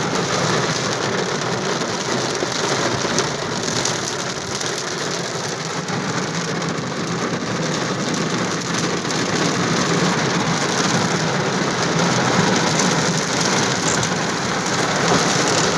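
Heavy rain pouring down steadily, a dense, even hiss of a downpour.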